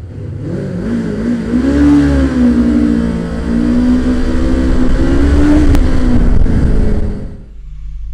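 Motorcycle engine accelerating and revving, its pitch rising, dipping and rising again, then falling away sharply about seven seconds in, leaving a low hum.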